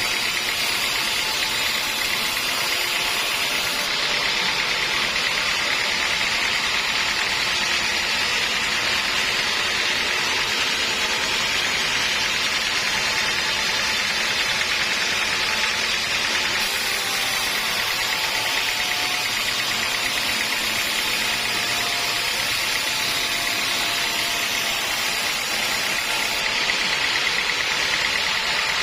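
Sawmill saw running at a steady, even level.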